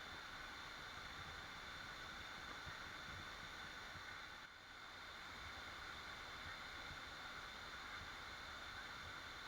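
Faint, steady rush of a waterfall: an even hiss of falling water over a low rumble, dipping briefly about four and a half seconds in.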